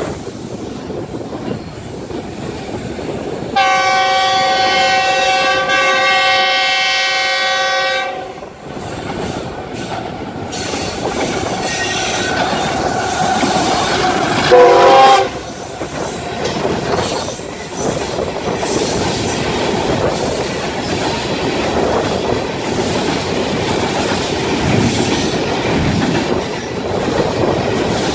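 Freight locomotive sounding a long multi-tone air horn for about five seconds as it approaches, then a second short, louder blast about fifteen seconds in. Between and after the blasts, two freight trains roll past close by on adjacent tracks, their wagon wheels clattering steadily.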